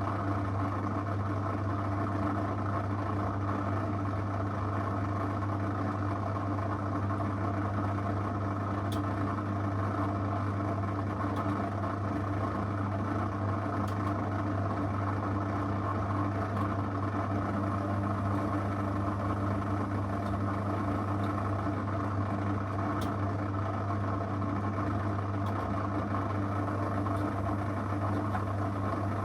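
Zanussi FL984CN washing machine running on a 35° wash program with a steady, even hum, plus a few faint ticks.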